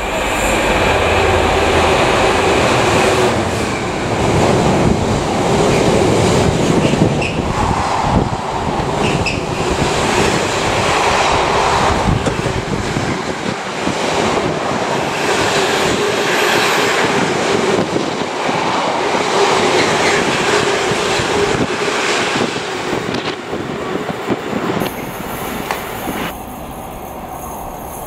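Intermodal container freight train passing through a station at speed, its wagons rumbling and clattering along the rails. Near the end the sound drops away.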